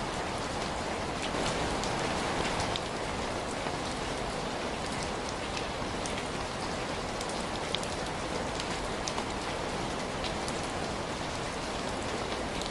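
Steady rain falling, an even hiss with scattered small sharp ticks of drops. It swells slightly in the second and third seconds.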